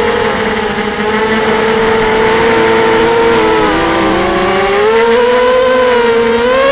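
Blackout 250 mini quadcopter's motors and propellers whining in flight, the pitch dipping a few seconds in and then rising again with the throttle. The owner thinks the sound means at least one motor is on its way out.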